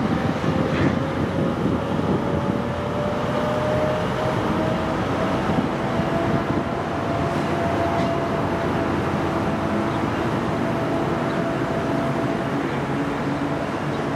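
Diesel commuter train hauled by a Brookville BL36PH locomotive, pulling away and gathering speed. Its steady running noise carries a whine that climbs slowly in pitch as the train accelerates.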